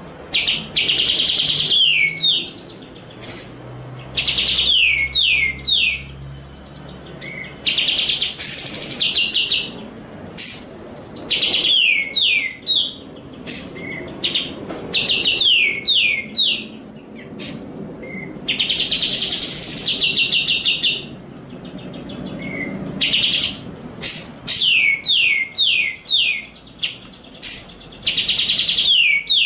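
Captive songbird singing for a bird-training recording: loud bursts every few seconds, each a quick run of four or five falling whistled notes, some opening with a buzzy trill.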